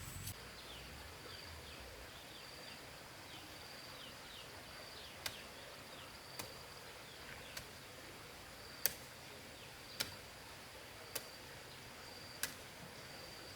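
Sharp knocks, seven in a regular run about one every second and a bit, beginning about five seconds in, over a faint pulsing high insect-like tone; short chirps are heard in the first few seconds.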